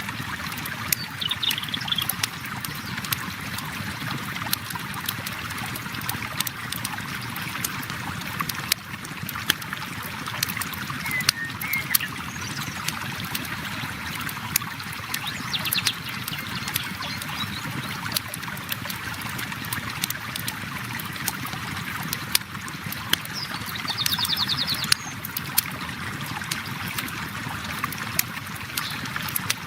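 Flowing river running steadily, with a campfire crackling in sharp, irregular pops over it. A few short high trills come in briefly, about a second in, around the middle and near the end.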